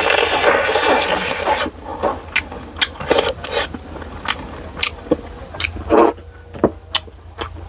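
Close-miked mouth sounds of a person eating during a mukbang: a dense noisy chewing stretch for about the first second and a half, then a run of short wet clicks and smacks as she chews.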